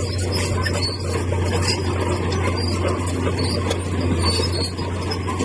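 Heavy earthmoving machine's diesel engine running steadily, with scattered clinks and scraping of metal and stone over it.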